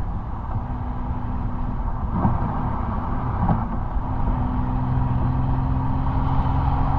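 Twin-turbo V12 exhaust of a 2005 Mercedes-Benz SL600 on the move at a steady engine speed, heard close to the tailpipe over a heavy low rumble. The engine note grows a little louder about halfway through, and two short knocks come in the middle.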